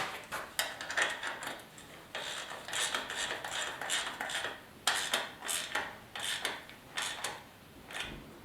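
Irregular clicks, knocks and rubbing of hand work on motorcycle parts, tools and small metal pieces being handled.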